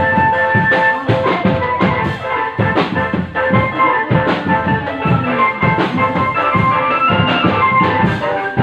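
Drum band playing: a steady beat of drums under a held melody of sustained keyboard-like notes.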